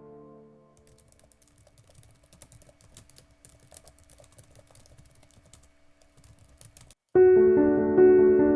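Faint computer-keyboard typing, irregular clicks, for about six seconds after the tail of soft background music fades out. Near the end, piano music starts abruptly and much louder.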